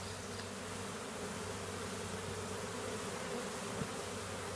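A large swarm of honey bees buzzing, a steady, unbroken drone of thousands of wings as the swarm is disturbed and moved.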